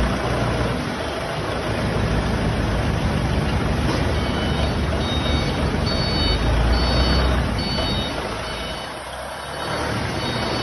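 A heavy vehicle's engine running with a low, steady rumble, joined about halfway through by short high-pitched beeps that repeat.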